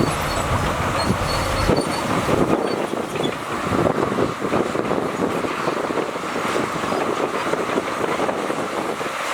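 Shantui crawler bulldozer working, its steel tracks clanking and rattling over the engine noise. The deep low rumble falls away just under two seconds in.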